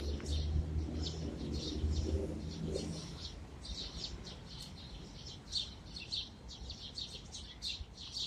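A flock of small birds at a feeder chirping loudly, many short overlapping chirps without a break. A low rumble sits under them for the first three seconds, then fades.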